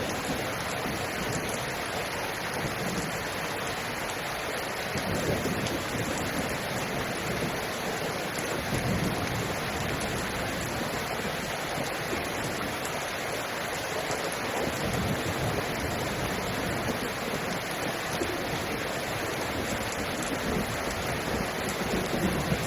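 Steady hiss of rushing water, with a deeper swell every few seconds.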